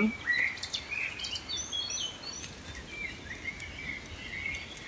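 Songbirds calling and singing: short chirps and whistled notes, denser in the middle, over a steady faint outdoor background hiss.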